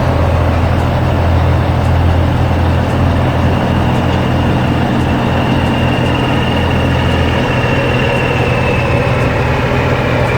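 Heavy machine engine running steadily with a deep rumble and a thin high whine that sinks slightly in pitch near the end.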